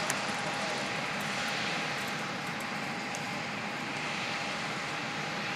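Jet airliner engines running steadily, a smooth rushing noise with a thin, steady whine.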